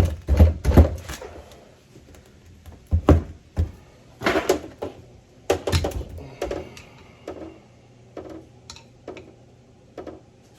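Hard parts of a steering box knocking and clattering as they are handled and set down, a busy clatter in the first second, then separate knocks and lighter taps about once a second.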